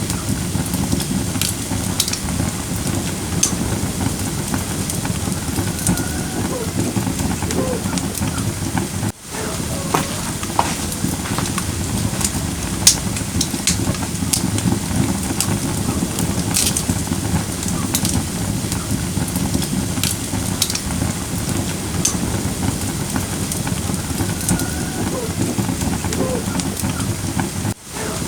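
Firewood burning in a fire pit: a steady low rumble and hiss with frequent sharp crackles and pops. The sound drops out for an instant twice, about nine seconds in and near the end.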